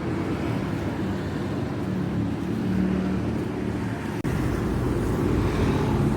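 A motor vehicle engine running steadily, with traffic noise. About four seconds in there is a sudden short break, after which the low rumble is louder.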